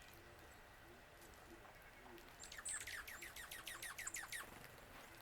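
A wild bird calling: a rapid series of about fourteen sharp, steeply falling notes lasting about two seconds, starting about halfway through.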